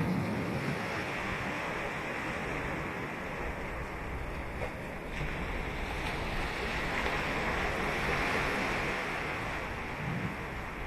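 Ocean waves breaking and washing up a beach: a steady rush of surf that swells about seven to nine seconds in.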